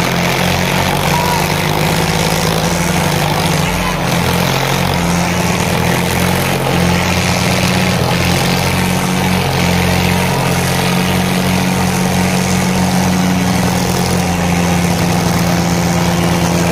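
Diesel tractor engines running steadily and hard, a continuous engine drone with no break.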